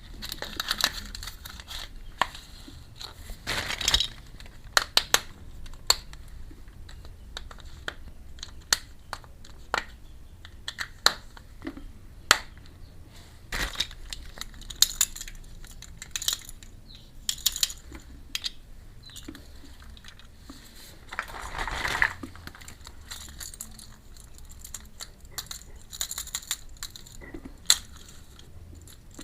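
Small plastic miniature toy kitchen pieces being handled: a run of light clicks and taps, with crinkling of packaging twice.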